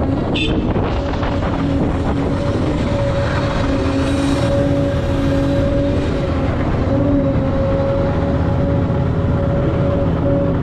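Heavy diesel earthmoving machinery running steadily under load, a Volvo EC950F excavator loading A60H haul trucks: a loud drone with a steady whine. There is a brief click just under half a second in and a short burst of hiss about four seconds in.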